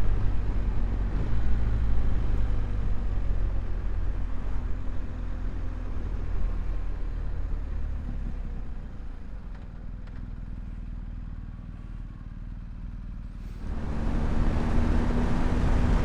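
Motorcycle engine running on the move, with road and wind noise. The sound eases off and grows quieter through the middle, then gets louder again suddenly near the end.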